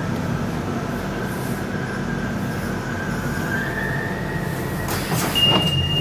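London Underground 1992 Stock Central Line train: a steady low hum with a high electrical whine that wavers slightly in pitch. About five seconds in the noise gets louder and a short, steady high beep sounds for under a second.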